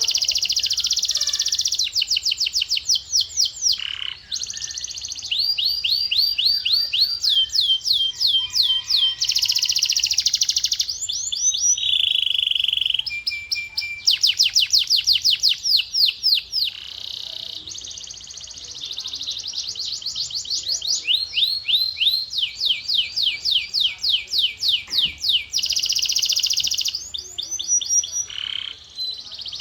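Male canary singing a long, unbroken song of rapid trills and rolls, moving from one repeated phrase to the next every second or two, some fast and buzzy, some slower sweeping notes.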